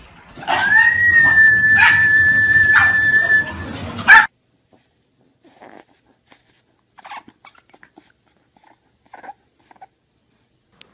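A small dog gives one long, high, steady whining howl lasting about three seconds. It is followed by a few faint, short whimpers and snuffles from a sleeping bulldog puppy.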